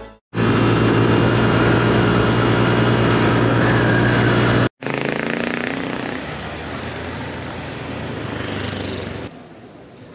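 Honda PCX 160 scooter's single-cylinder engine running at a steady pitch while riding, heard in two cut-together shots, the second quieter and noisier. The sound drops away sharply near the end.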